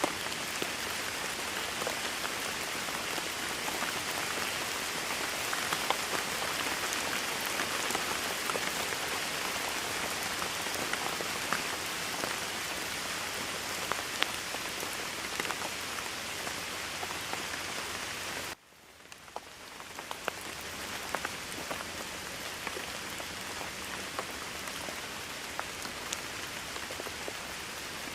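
Steady rain falling, with individual drops ticking through the hiss. About two-thirds of the way through it cuts out suddenly and swells back within a second or two.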